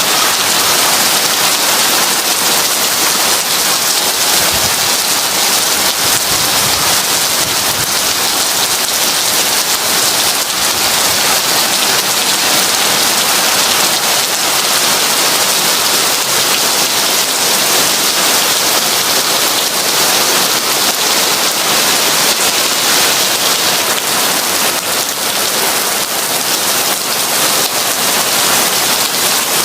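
Heavy rain pouring steadily, a dense, even hiss without breaks.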